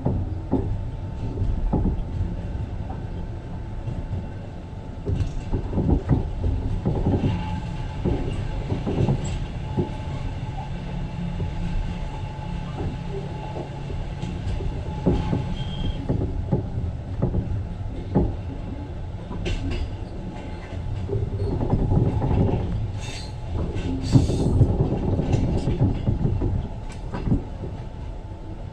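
Moving passenger train heard from inside the carriage: a steady low rumble with irregular clattering of the wheels over the track and a few brief high wheel squeals.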